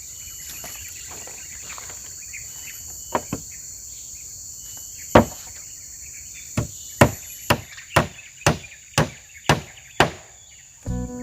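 Hammer blows on wood: a few scattered strikes, then a steady run of about two a second that stops near the end. Insects chirr steadily underneath.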